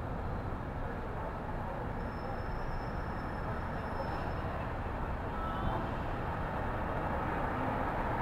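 City street traffic: a steady rumble of passing cars, trucks and buses that swells gently toward the end, with a faint high whine for a couple of seconds near the start.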